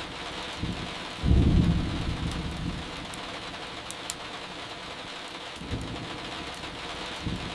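Steady rain with a low rumble of thunder about a second in that fades over a second or two.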